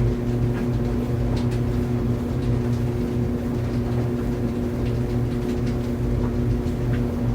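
Clothes dryer running: a steady motor hum with a low drum rumble, and faint, irregular light ticks.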